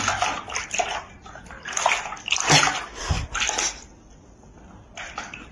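Water splashing and sloshing in irregular bursts, dying down about four seconds in.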